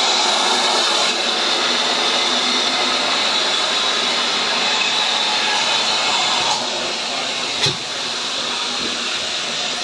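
Steam locomotive hissing steadily as it blows off steam, with a single sharp knock about eight seconds in.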